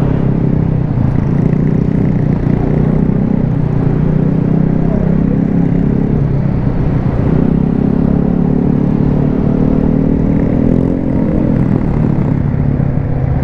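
Motorcycle engine running steadily at cruising speed, with road and wind noise on the helmet-mounted camera.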